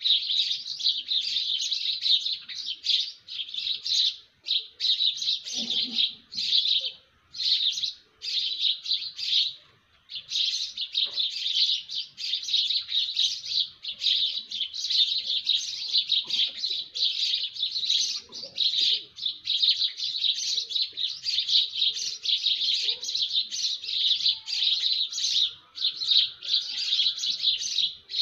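Birds chirping: a dense run of rapid, high chirps, broken by a few brief pauses in the first third.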